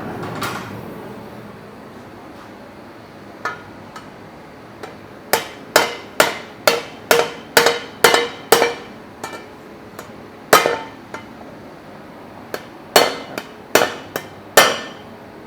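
Hammer blows ringing on a thin metal frying-pan blank: a quick run of about eight strikes, a single one a couple of seconds later, then a few more near the end. A steady hum from the gas forge and extraction fans runs beneath.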